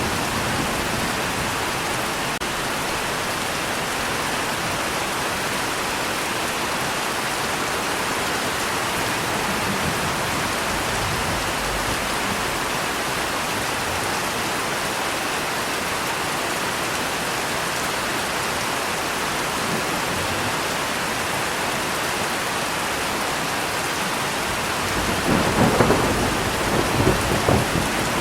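Steady rain falling, with a short rolling rumble of thunder about three seconds before the end.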